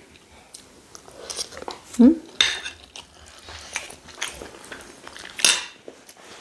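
Cutlery clinking and scraping against plates during a meal of rice and stew, in scattered sharp clicks, the loudest about two and a half seconds in and again near the end. A brief voice sound just after two seconds.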